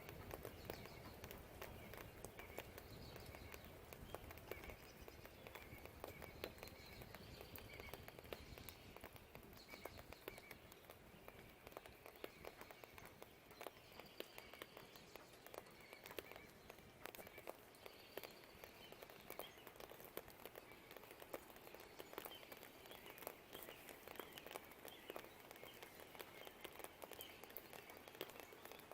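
Faint light rain dripping, a steady scatter of small drops, with quiet birds chirping in the background. A low distant rumble underlies the first third and then fades.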